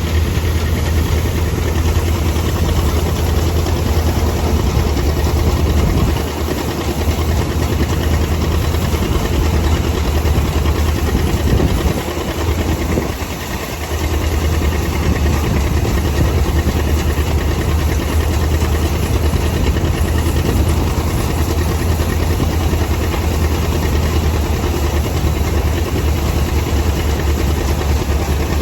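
Large diesel tractor engine running steadily with a deep low hum. The level dips briefly about six seconds in and again for a couple of seconds around twelve seconds in, then the engine carries on as before.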